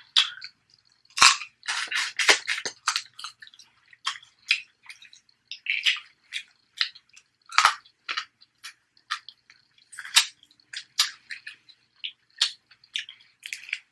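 Close-miked eating: wet chewing and lip smacking as a series of irregular clicks and crackles, with two sharper cracks, one about a second in and one about halfway through.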